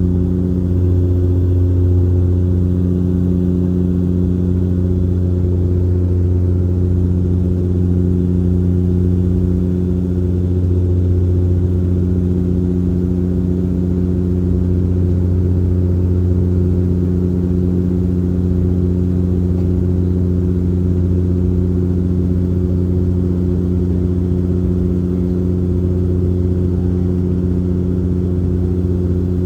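Cabin drone of a Bombardier Dash 8 Q400's Pratt & Whitney PW150A turboprops and six-bladed propellers in flight: a loud, steady hum at a fixed pitch with a low rushing noise beneath.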